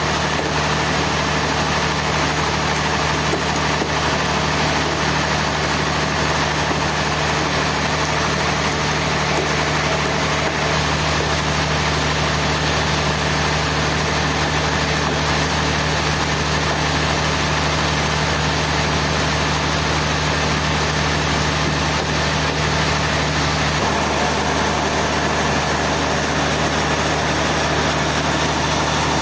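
Sawmill engine running steadily, a continuous low hum with no cutting strokes or pauses.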